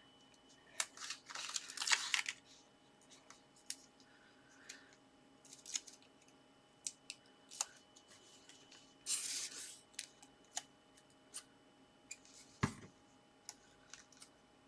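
Paper and card being handled on a craft desk as a paper sentiment is placed and stuck onto a card: scattered light taps and clicks with a few short rustles, and a soft thump near the end.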